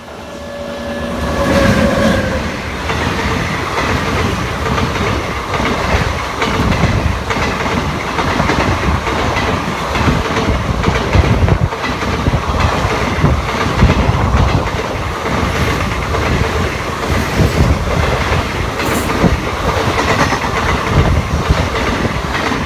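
An express hauled by a WAP7 electric locomotive passes close on the adjacent track, heard from a moving train. A rush builds quickly as the locomotive arrives, then its coaches go by in a continuous rumble and clickety-clack of wheels over rail joints.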